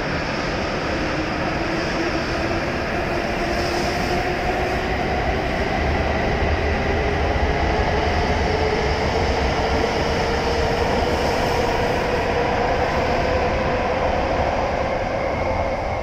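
W7 series Shinkansen train accelerating away from the platform: the traction motors give a whine that climbs steadily in pitch over the rumble of the wheels and the passing cars.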